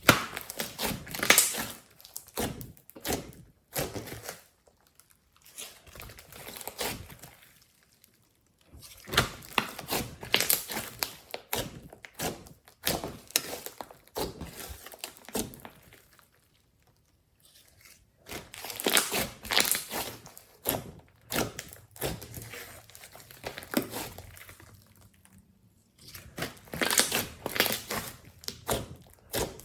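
Hands squishing and stretching glossy slime: bursts of fast crackling clicks and small pops, in runs of a few seconds with short quiet pauses between.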